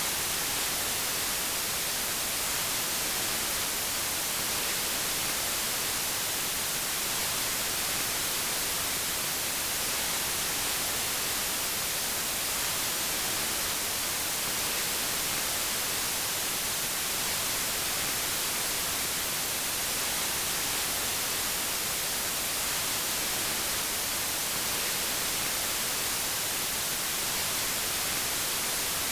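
Steady synthetic white noise, an even hiss strongest in the high end, with no change or break.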